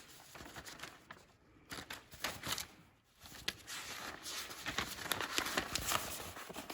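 Handling noise: crinkling and rustling with many small sharp clicks, growing busier about halfway through.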